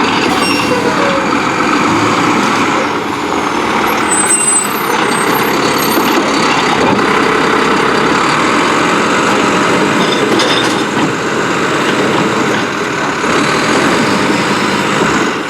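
Mack LR garbage truck with a Heil Durapack Rapid Rail body, its engine running loud and steady.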